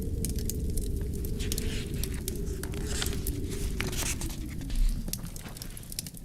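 Wood fire in a fireplace crackling and popping with sharp snaps, over a steady low wind that eases off near the end. A low thump about five seconds in is the loudest sound.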